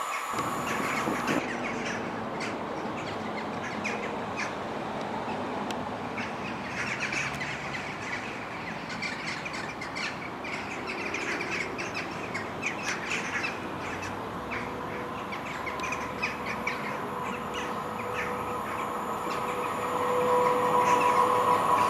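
Birds chirping and singing over a steady background rush. Near the end a train's steady humming tone grows louder as it approaches.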